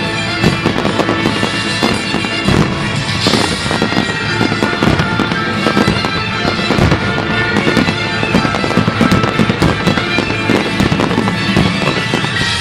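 Fireworks going off in quick succession, a dense run of bangs and crackling with no pause. Music with sustained tones plays along underneath.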